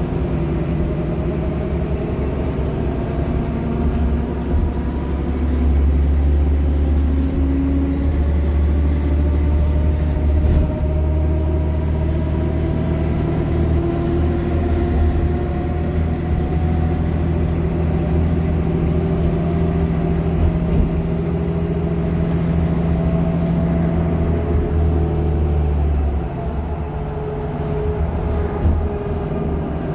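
2015 Nova Bus LFS articulated hybrid bus running under way, its Cummins ISL9 diesel and Allison hybrid drive giving a strong low drone with whines that climb slowly in pitch, and a thin high whine above them. About 26 seconds in, the drone drops and the high whine falls away as the bus eases off.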